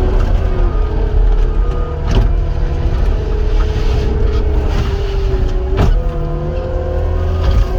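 Cat 259 skid steer's diesel engine and hydraulics running under work, with a steady whine that shifts slightly in pitch. Two sharp clanks about two and six seconds in.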